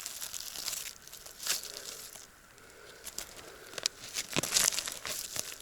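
Footsteps through dry fallen leaves, irregular rustling steps with a short lull about two seconds in.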